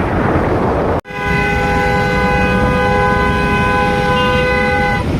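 A loud horn sounding one long, steady blast of several tones at once, starting just after a sharp break about a second in, over wind and road noise from riding on a motorcycle.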